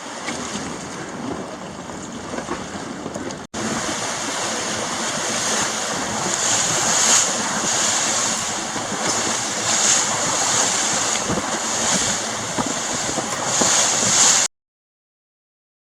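Sea surf washing on a beach mixed with wind buffeting the microphone, swelling and easing. It drops out for an instant about three and a half seconds in, then stops suddenly near the end.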